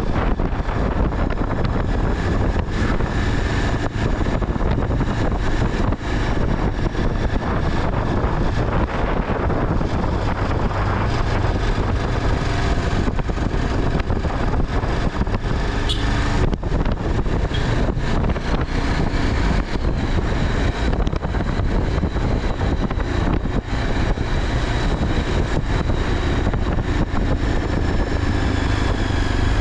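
Steady vehicle rumble and wind noise of a bike ride along a road, running on without a break.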